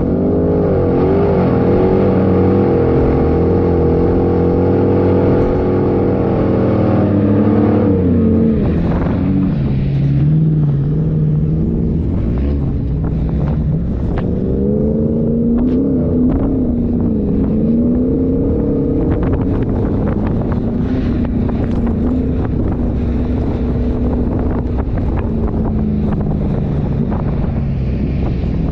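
Off-road 4x4 engine running under load, its pitch rising and falling as the revs change, with a clear drop about eight seconds in. From then on it is joined by frequent short knocks and rattles.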